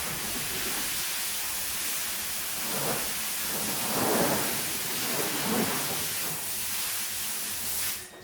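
Water spraying hard onto a soaked, muddy shag rug, a steady rushing hiss that swells a few times as the spray moves, then cuts off suddenly near the end.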